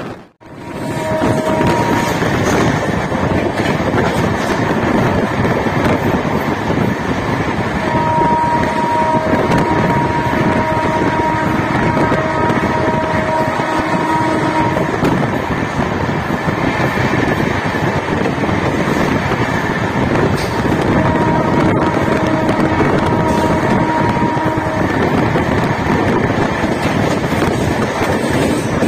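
LHB-coach express train running at speed, heard from an open coach door: a steady rush of wind and rolling wheels. Over it the WAP-7 electric locomotive's horn sounds a steady two-note blast three times: briefly near the start, for about seven seconds a third of the way in as the train runs through a station without stopping, and for about four seconds later on.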